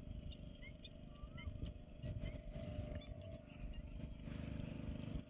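Small birds chirping in short rising notes, several in the first couple of seconds, over a low rumble and a faint steady hum.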